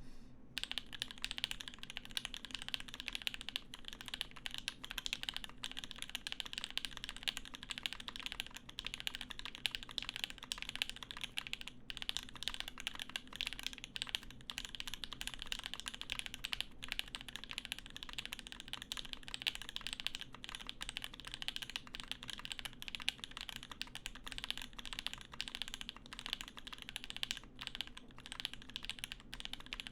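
Typing on the Percent Studio Skog-Reboot prototype mechanical keyboard: fast, continuous keystrokes clicking without pause.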